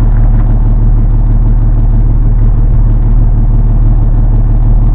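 Engine running steadily at idle, a loud, even hum that holds without change.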